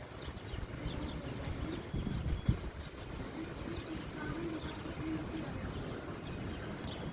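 House sparrows chirping faintly in short scattered notes over a low wind rumble, with a low wavering tone for a few seconds in the middle and a single soft thump about two and a half seconds in.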